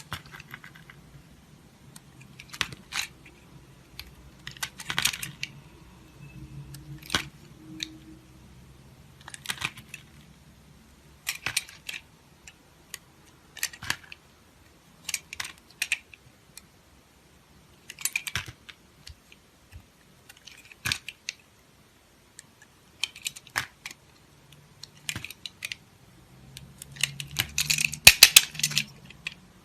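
Dry soap being cut with a knife: short, crisp crunching cracks every second or two, with a faster, denser run of crackles near the end.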